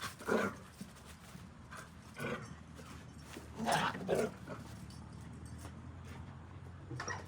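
A dog giving short calls four times, two of them close together in the middle, over a low steady hum.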